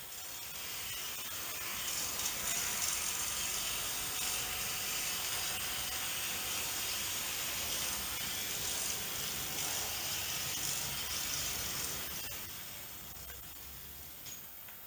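Märklin H0 model freight train (NS class 700 switcher pulling three freight cars) running on metal C Track, a steady whirring hiss of the small motor and wheels that swells about a second in and fades out after about twelve seconds as the train passes.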